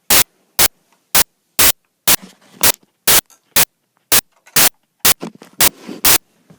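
Loud sharp clicks repeating evenly about twice a second, with faint rustling and handling noise between them.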